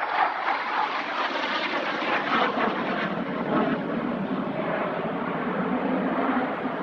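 Airplane in flight, its engine giving a steady rushing drone.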